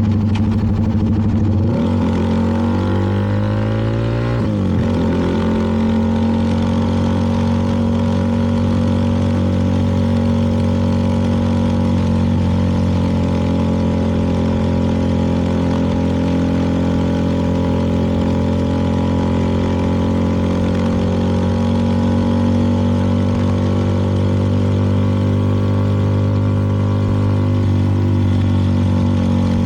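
CFMoto 300NK's single-cylinder engine under way: it pulls up through a gear for a couple of seconds, shifts up about four seconds in, then holds a steady cruise.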